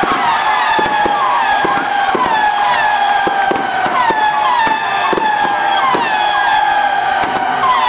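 Fireworks burning on a castillo tower: shrill whistling fireworks whose pitch slides downward over and over, about once a second, over a steady hiss and rapid crackling pops.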